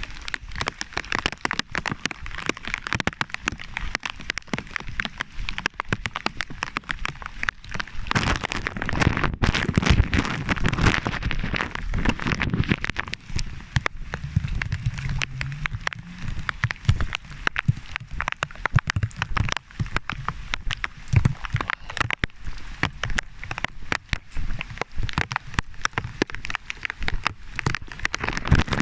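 Heavy rain, its drops striking the plastic bag wrapped around the phone right at the microphone, making a dense, continuous run of sharp taps over the hiss of the downpour.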